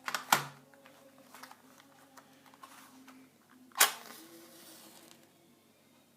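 Sharp clicks or knocks from handling small hard parts: two close together at the start and a louder one about four seconds in, over a faint background.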